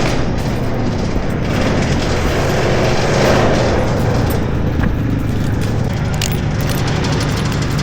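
An engine running steadily, with a noisy swell about three seconds in.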